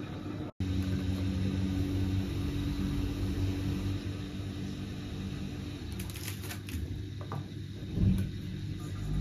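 A steady low motor hum, with a few light clicks and taps near the end and a single thump about eight seconds in.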